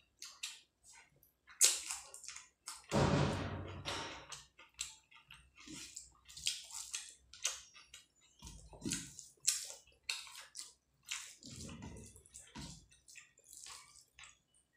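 Close-miked eating of rice and curry: wet chewing with many short mouth clicks and smacks, and a few longer, louder wet sounds, the first about three seconds in and two more later.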